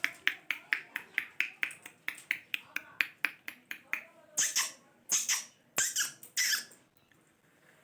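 Parrot making a rapid, even series of sharp clicks, about three a second, followed by four short hissing sounds near the end.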